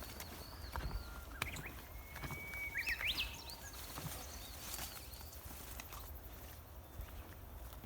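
Birds singing outdoors: repeated short arched whistled calls, and about two seconds in one long level whistle that ends in a few quick rising notes. A few light knocks and a low steady rumble sit underneath.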